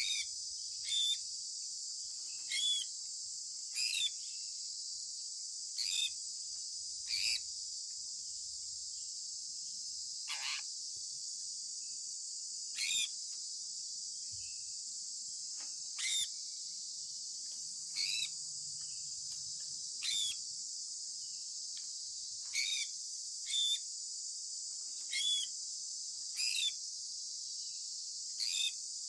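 Sun conure parrot giving short, sharp chirps, about fifteen of them spaced one to three seconds apart, each dropping in pitch, over a steady high-pitched hiss.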